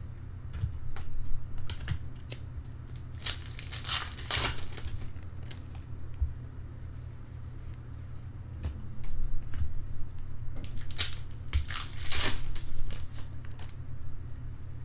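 Trading card pack wrappers being torn open and crinkled, with cards handled, in uneven bursts over a steady low hum.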